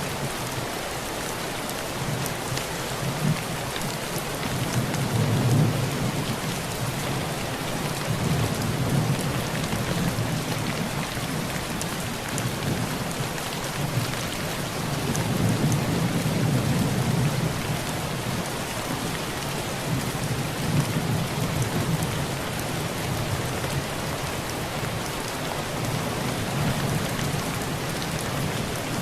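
Heavy rain falling on a tin roof: a steady hiss with fine drop ticks, while low thunder rumbles swell and fade about five times.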